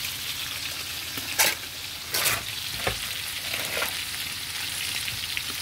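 Floured pollock pieces frying in oil in a frying pan, a steady sizzle, with a few sharp clicks between about one and a half and three seconds in.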